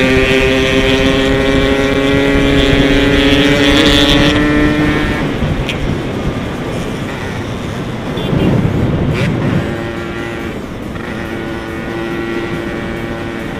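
Yamaha RX-King's two-stroke single-cylinder engine, heard from the rider's seat, running at steady high revs under throttle. About five seconds in the note eases off and goes quieter, a brief low rumble passes, and the engine settles into a lower, steady cruise.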